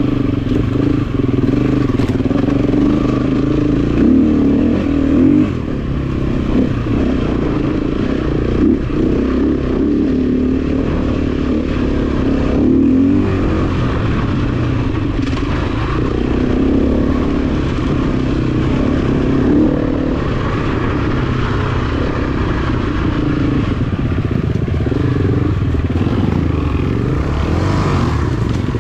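Honda CRF250F dirt bike's single-cylinder four-stroke engine running steadily under throttle on the trail, its pitch rising and falling a little as the rider works the throttle.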